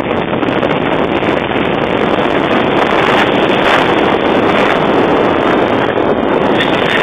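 Strong wind buffeting the microphone: a loud, steady rushing roar.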